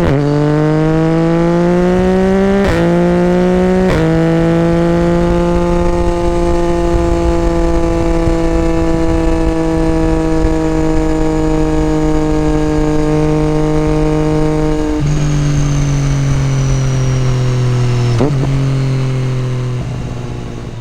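Yamaha MT-09 SP's 847 cc inline-three engine through an Akrapovič carbon full exhaust with the dB killer removed, accelerating with rising pitch and two quick upshifts in the first four seconds. It then holds a steady note, drops in pitch twice later on, and fades near the end.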